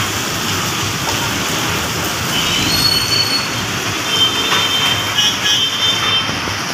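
Heavy rain falling as a loud, steady hiss over busy road traffic. Short, thin high squeals come through a couple of times, about a third of the way in and again in the second half.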